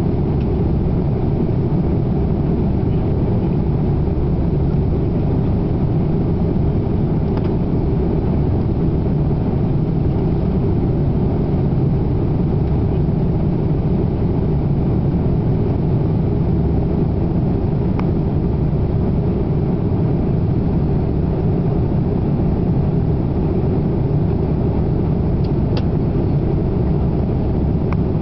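Steady low rush of cabin noise aboard an Airbus A340-300 in cruise: airflow over the fuselage blended with the drone of its four CFM56 turbofan engines. A few faint clicks are heard along the way.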